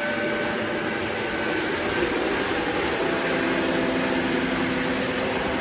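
Lionel model trains running on the layout: a steady rumble of wheels on track with electric motor hum, a few steady hum tones growing stronger about halfway through.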